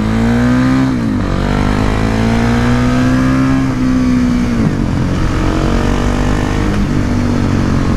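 Husqvarna 701 Supermoto's single-cylinder engine through an SC-Project slip-on exhaust, pulling under acceleration. The pitch climbs, drops back about a second in, climbs again and drops a little past halfway, as at upshifts, then runs fairly steady.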